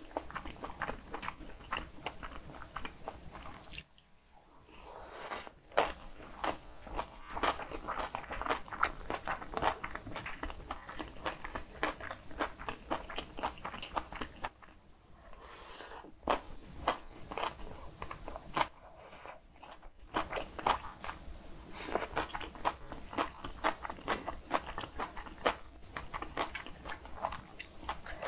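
Close-up eating sounds of cockle and radish-salad bibimbap and kimchi soft-tofu stew: quick wet chewing and crunching, pausing briefly about 4, 15 and 19 seconds in.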